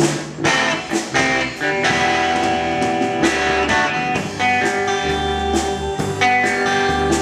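Live band playing an instrumental passage: guitars carrying the tune over a bass line and drums, on a steady beat.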